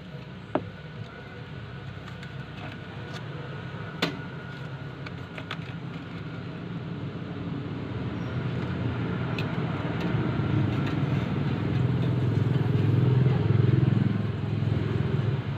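A passing road vehicle: a low engine rumble grows louder, peaks about thirteen seconds in, then eases off. A couple of sharp clicks sound in the first few seconds.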